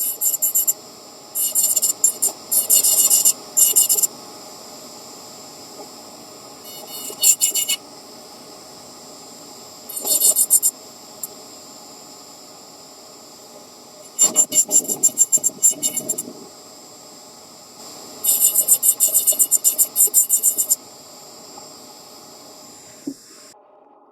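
Quick rubbing strokes as a carved nut is polished by hand. They come in six bursts of brisk scratching, each a second or two long, over a faint steady hiss.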